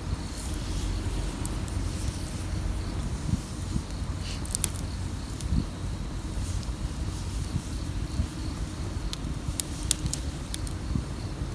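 Wood fire burning, with sharp crackles and pops now and then over a steady low rumble; a cluster of pops comes about four and a half seconds in and several more near the end.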